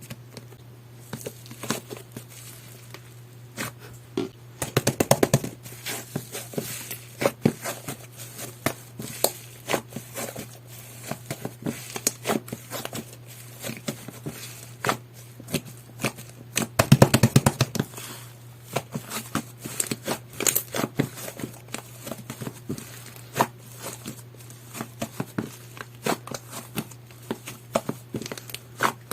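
Jelly-textured slime being squeezed and stretched by hand: a steady run of wet clicks, pops and crackles, thickening into busier flurries about five seconds in and again about seventeen seconds in. A faint steady low hum sits underneath.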